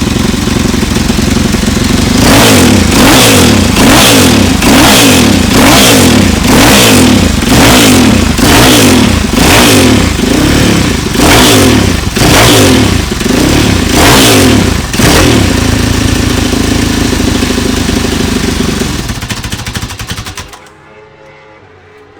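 Classic racing motorcycle engine, very loud, revved in about fifteen quick blips of the throttle in a row, then running steadily before dying away near the end.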